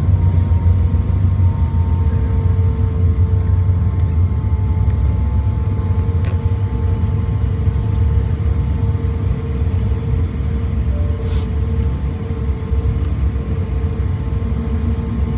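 Cabin noise aboard an Airbus A350-1000 rolling on the ground after landing: a steady, loud low rumble of the airframe and Rolls-Royce Trent XWB engines at low power, with a faint steady whine.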